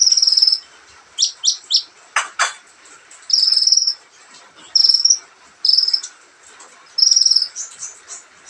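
Sunbird (kolibri ninja) singing: five buzzy, trilling phrases, each under a second long, spaced a second or so apart, mixed with short thin chirps and two sharp clicking notes about two seconds in.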